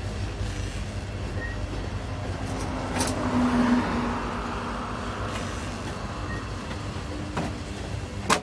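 Freight train of covered hopper cars rolling past close by: a steady rumble of steel wheels on rail, broken by a few sharp clacks, the loudest near the end. The sound swells briefly with a short tone about three seconds in.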